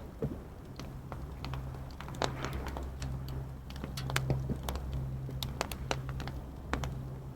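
Wood fire crackling, with sharp irregular pops and snaps, some louder than others, over a low steady hum.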